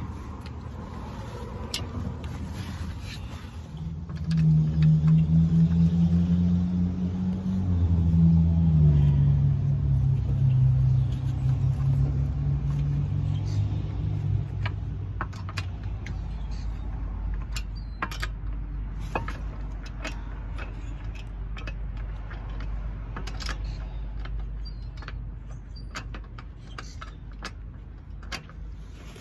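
A motor vehicle's engine running with a low hum that rises sharply about four seconds in, steps down in pitch a few seconds later and fades to a steady low rumble. In the second half, scattered light metallic clicks of lug nuts being threaded onto the wheel studs by hand.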